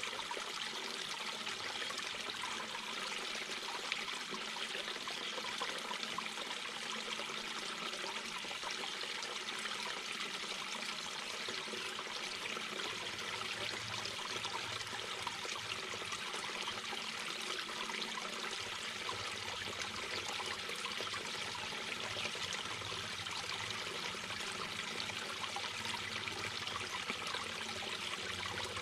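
Small mountain brook babbling over stones: a steady, continuous rush and trickle of water.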